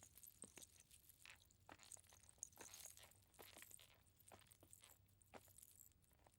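Faint footsteps, a quick, irregular run of short crunching steps.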